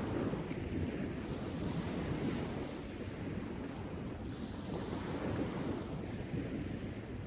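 Wind buffeting the microphone outdoors: an uneven low rumble with no other distinct sound.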